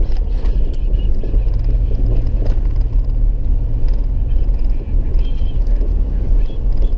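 Car driving at low speed, heard from inside the cabin: a steady low drone of engine and road noise.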